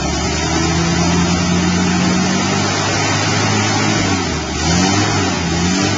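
1985 Jeep engine running just after a cold start, holding a steady idle, then revved in a few quick throttle blips near the end. The owner says it is running rich and needs its carburetor rebuilt.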